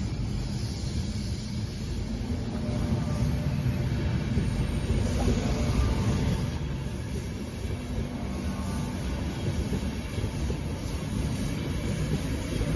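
LNER InterCity 225 train's passenger coaches rolling past, a steady rumble of wheels on the rails that grows louder near the end.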